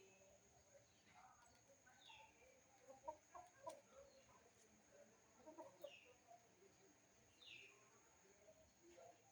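Faint background: chickens clucking, with a few short descending chirps from a small bird.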